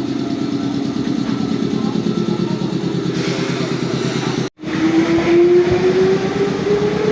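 Electric train running, then after a sudden cut its motor whine rising steadily in pitch as it pulls away.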